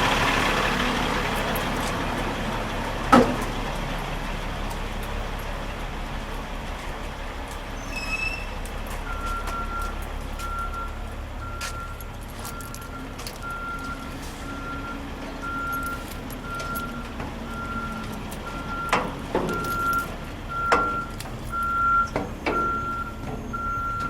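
Semi-truck engine idling with a hiss that fades out at the start and one sharp knock about three seconds in. From about nine seconds in, a vehicle's backup alarm beeps steadily about once a second, with a few more knocks near the end.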